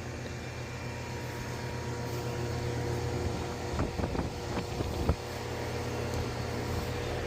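R-410A air-conditioning condensing unit running with a steady hum, on a system short of refrigerant from a leak. A few short clicks and knocks come about four to five seconds in, the last one the loudest.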